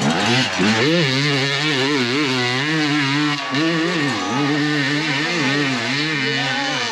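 Dirt bike engine revving close by, its pitch rising and dipping over and over as the throttle is worked.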